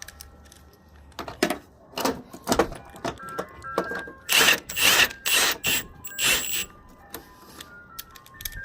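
A series of short, sharp bursts of tool noise, about a dozen, from work on a pickup truck's door hinge bolts. They are loudest and closest together in the second half. Background music with a light melody plays under them.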